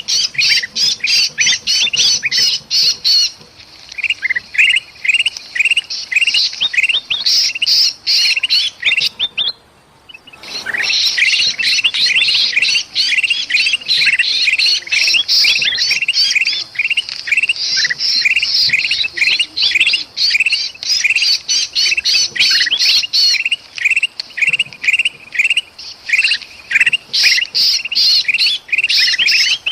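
Bulbuls (kutilang emas and kutilang) calling in rapid, harsh, agitated chatter, many notes a second overlapping. These are the alarm and distress calls of a trapped bulbul and the birds mobbing it. The chatter breaks off briefly about ten seconds in.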